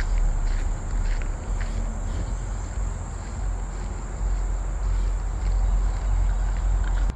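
Insects trilling steadily at one high pitch, over a louder, steady low rumble, with a few faint ticks from footsteps on a walk.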